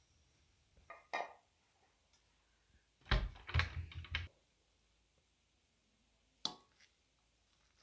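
A few scattered clicks and knocks: one around a second in, a second-long run of clattering knocks with a low thump about three seconds in, and a single sharp click near the end.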